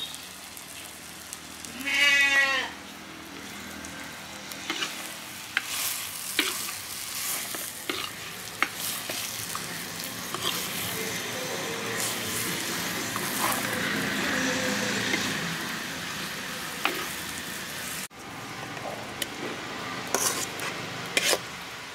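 Mutton pieces sizzling in a clay pot as a steel ladle stirs them, with frequent light clicks and scrapes of the ladle against the pot. About two seconds in, one loud wavering animal call stands out above the cooking. Near the end, a steel spoon scrapes and taps the fried tomato-onion mix out of a steel pan.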